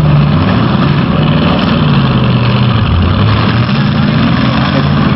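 Several demolition derby cars' engines running loud and revving together, their pitch rising and falling as the drivers push and manoeuvre.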